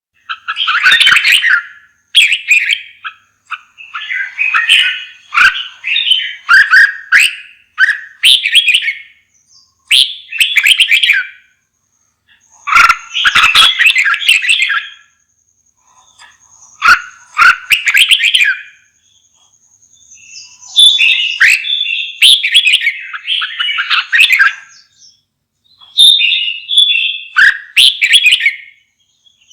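Red-whiskered bulbul singing: loud, short warbling phrases of a second or two, repeated over and over with brief pauses between them.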